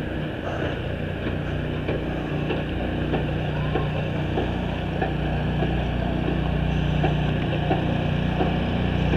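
An engine running steadily with a low hum, growing slowly louder, with scattered light clicks and knocks over it.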